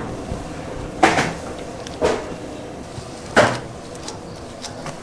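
Three sharp knocks of hard objects being handled or set down, spaced about a second apart, over a steady background.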